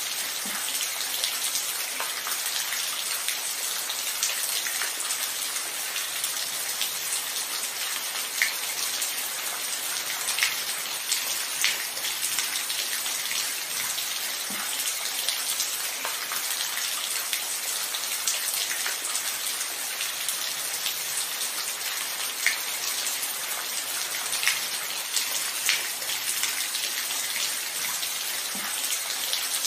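Steady rainfall, a constant hiss of falling rain. Now and then a single louder drop taps out above it.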